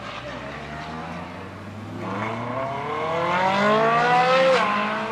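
A car engine accelerating hard away. After a low, steady rumble, the pitch climbs for about two and a half seconds, then drops suddenly near the end as it shifts up a gear.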